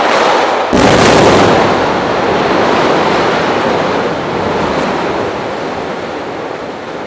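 Building coming down during demolition: a sudden, loud rushing roar of collapsing debris starts about a second in, then slowly fades over several seconds.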